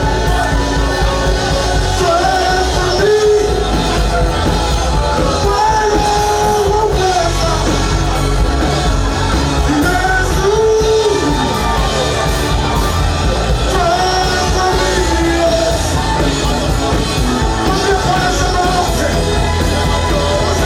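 Live worship music: a group singing a melody over a full band with steady bass, in a large hall.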